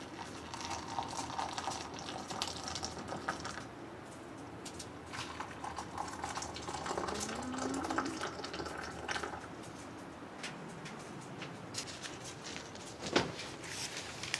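Freshly boiled tea poured into a vessel in two pours, the pitch rising as the vessel fills, with a few light clinks and one sharp knock near the end.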